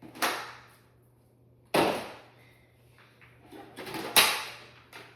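Three loud bumps with short scraping tails, about two seconds apart, with smaller knocks in between: things being handled and set into a cardboard box while packing.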